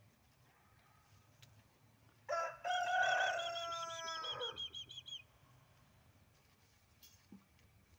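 A loud, long bird call starting a little over two seconds in and lasting about three seconds, dropping in pitch as it fades, with a quick run of repeated higher chirps over its latter part.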